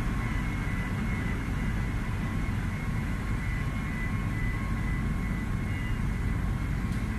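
Ferry's engines running as a steady low drone, with a faint high whine.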